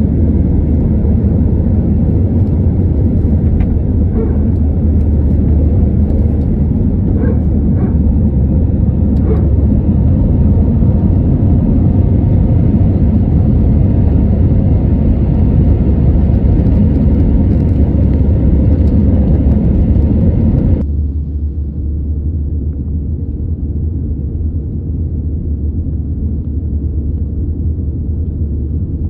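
Cabin noise of an Airbus A320 during a night takeoff: a loud, steady rumble of the engines and airflow, with a few faint ticks. About 21 s in, the higher hiss cuts off suddenly and the noise gets quieter, leaving the low rumble.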